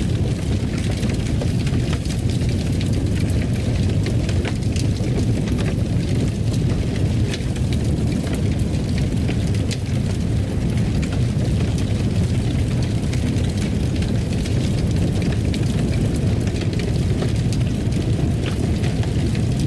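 Fire burning in a fireplace: a steady low rumble with scattered crackles and pops throughout.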